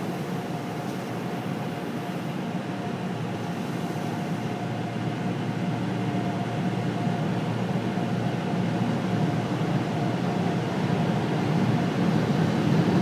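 Car wash machinery running: a steady rumble with a thin, even hum through it, slowly getting louder.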